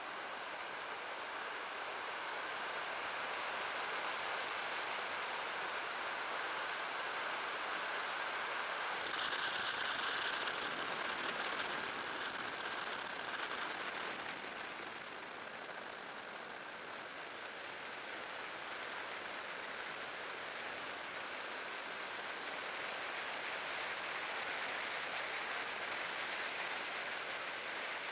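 Steady rushing noise of an electric trike in motion, mostly wind and rolling noise, swelling and easing slowly with no clear motor note.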